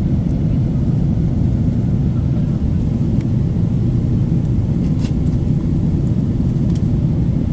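Steady low rumble of airliner cabin noise from a Boeing 777-300, with a few faint clicks.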